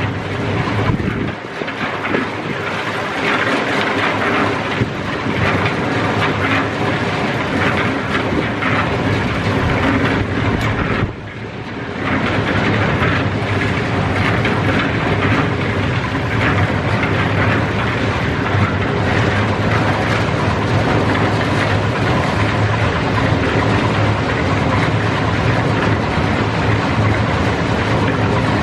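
Steady, loud machinery noise, like an engine running continuously, with a brief drop in level about eleven seconds in.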